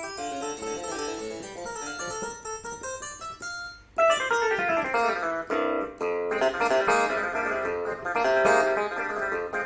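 Casio CT-S1 portable keyboard playing quick runs of notes on a plucked-string voice. About four seconds in the sound gets louder and changes to a guitar-like tone, opening with a falling run of notes.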